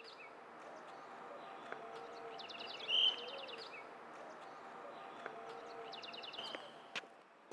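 Outdoor ambience with birdsong: a bird sings a rapid high trill three times over a steady background hiss. A single sharp knock near the end.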